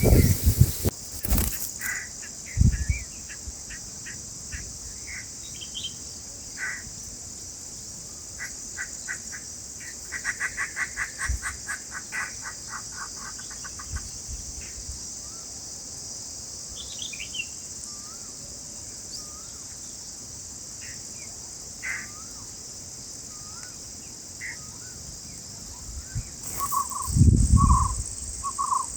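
Bulbul chirps and calls, scattered and short, with a fast even run of chirps about a third of the way in, over a steady high insect hiss. Low thuds come at the start and again near the end.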